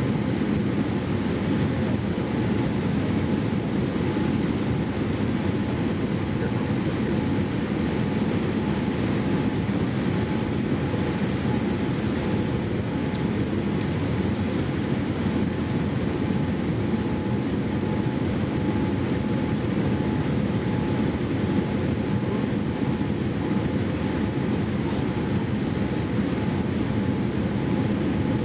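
Steady engine drone inside the cabin of a Boeing 787-8 airliner, a low even noise with a faint steady tone above it.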